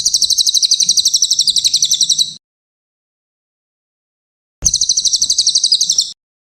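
A cililin songbird singing two high, fast trills of rapidly repeated notes, about ten a second. The first trill lasts about two and a half seconds; the second, shorter one comes after a pause of a couple of seconds.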